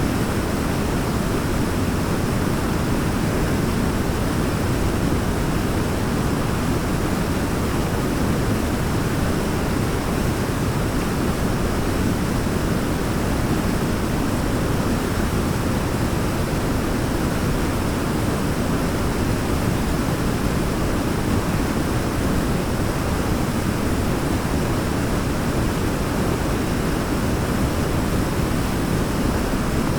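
Waterfall rushing in a steady, unbroken roar of falling water, deep and full, with little change.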